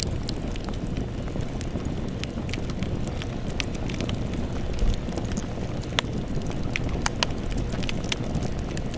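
Campfire burning: a steady low rumble of flames with irregular crackles and pops of burning wood, a few sharper pops standing out.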